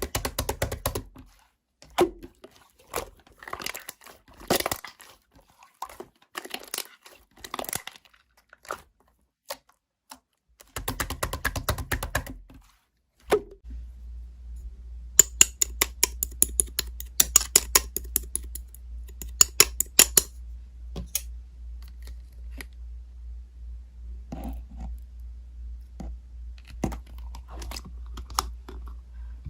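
Slime being squished and stretched by hand: sticky crackling, popping and tearing sounds with bursts of rapid sharp clicks. A low steady hum comes in about halfway through.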